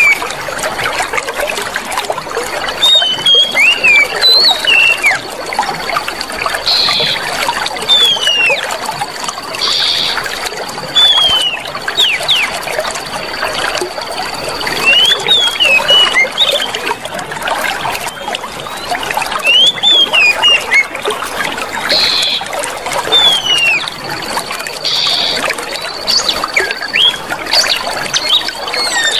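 Clear running water trickling steadily, with many short chirping, gliding bird calls over it. A thin, steady high tone runs through much of it.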